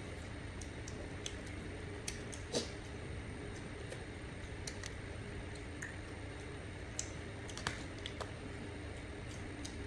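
Eating sounds: irregular light clicks and taps, a dozen or so, over a steady low background hum.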